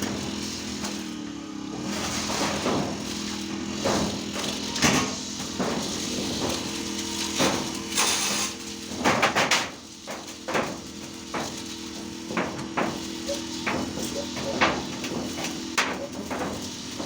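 Irregular sharp knocks and clanks, like hammering, over a steady machine hum.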